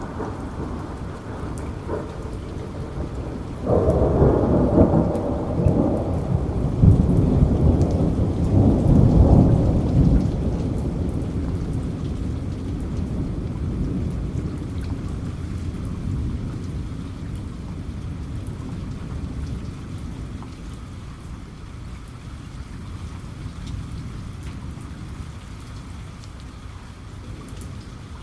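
Steady heavy rain falling, with a roll of thunder that breaks in suddenly a few seconds in, swells for several seconds and then slowly rumbles away.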